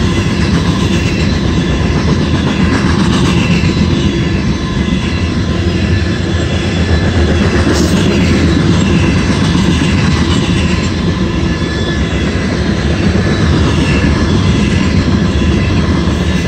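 Loaded covered hopper cars of a CSX unit grain train rolling past close by: a steady, loud rumble of steel wheels on the rails with a faint repeating clatter.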